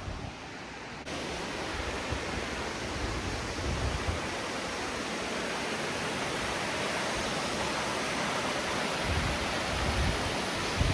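Steady rush of a waterfall's falling water, louder from about a second in, with a few low thumps on the microphone.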